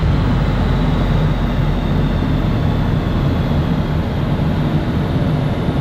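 A vehicle engine running at a steady speed, a constant low drone.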